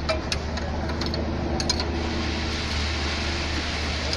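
Steady mechanical drone, with several sharp metallic clicks in the first two seconds.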